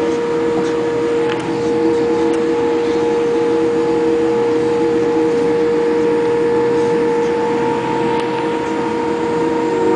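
Boeing airliner's jet engines running, a steady whine made of several held tones over an even rushing noise.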